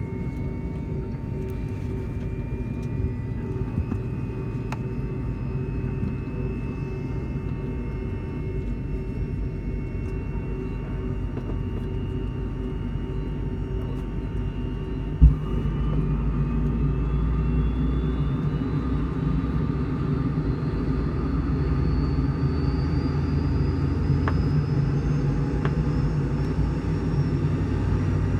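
Pratt & Whitney JT8D turbofan of a McDonnell Douglas MD-83 spooling up during engine start, heard from inside the cabin: a steady low rumble under a whine that slowly rises in pitch. About halfway through comes a single sharp thump, after which the rumble grows louder and the whine keeps climbing.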